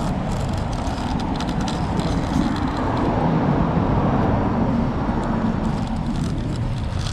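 Road traffic noise of cars going by, with one vehicle passing louder about halfway through.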